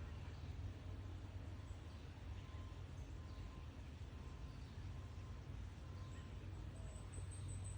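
Faint high bird peeps and chirps over a steady low hum, with a thin, high twittering near the end.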